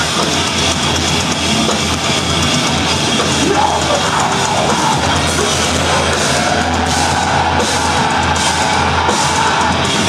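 Metalcore band playing live at full volume: a loud, dense, steady band sound with the drum kit to the fore.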